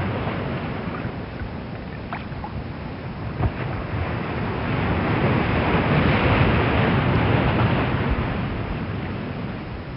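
Ocean surf: a continuous rushing wash of water that swells about five to eight seconds in and then fades away, with a brief knock about three and a half seconds in.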